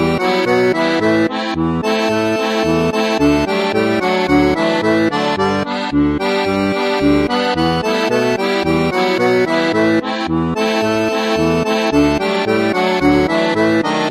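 Garmon (Russian button accordion) playing a lively tune: a melody over a steady alternating bass-and-chord accompaniment.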